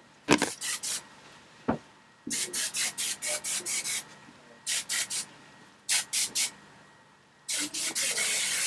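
Hairspray sprayed in many quick short bursts, in groups of three or more, then one longer spray near the end.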